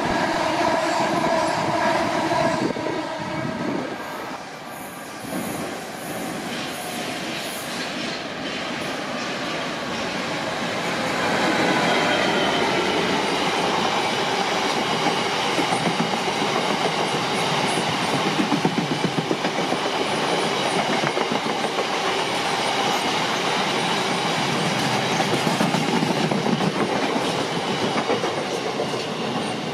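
A train running through the station, with wheels clicking rhythmically over the rail joints as it gets louder from about ten seconds in. It opens with a steady chord of tones that stops about three seconds in.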